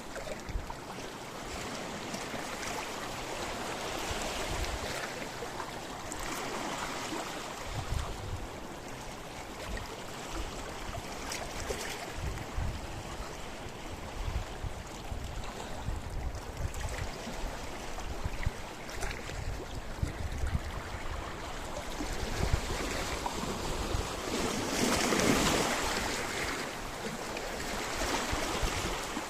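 Sea waves washing onto a rocky shore, a continuous rushing wash that swells and ebbs, with the biggest surge near the end.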